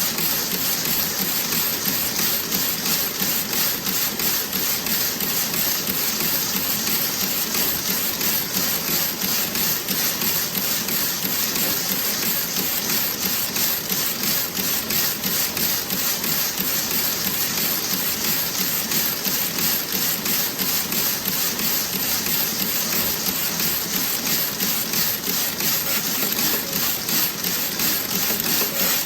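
Toe-sock circular knitting machine running, a rapid, even mechanical clatter over a steady high hiss.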